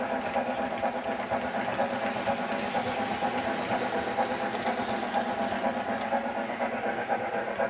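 Lionel O gauge model train running on the layout's track, a steady mechanical hum with a fast rattle.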